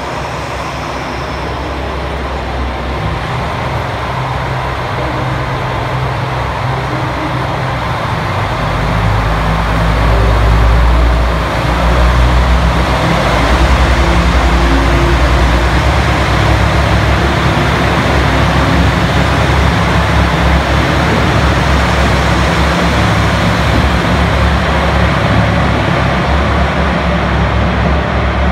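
Train running through a covered station: steady rumble with a low engine throb, louder from about nine seconds in as a train passes close by.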